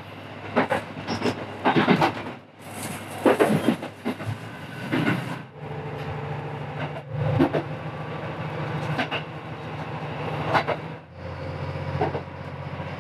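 KiHa 75 diesel railcar running along the line: wheels clacking irregularly over rail joints and points. A steady low engine hum comes up underneath about halfway in.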